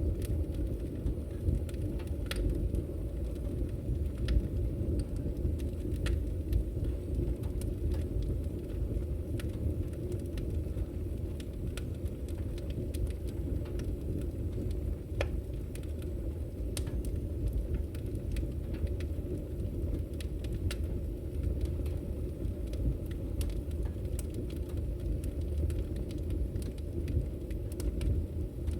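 Wood fire burning: a steady low rumble of the flames with scattered sharp crackles and pops from the burning firewood.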